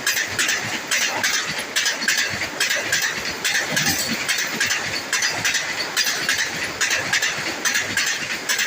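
Vande Bharat Express electric trainset rushing past, its wheels clattering over the rails in a quick uneven rattle.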